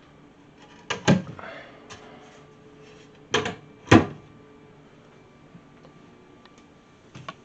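A few sharp knocks and bumps of food packages and storage shelves or doors being handled, the loudest about four seconds in.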